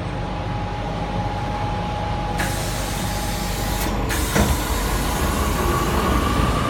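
Chopper-controlled Tangara electric train heard on board: a steady hum, then a hiss of air about two and a half seconds in and a thud just after four seconds, with no door tone. Then a whine that rises in pitch as the traction equipment starts the train moving.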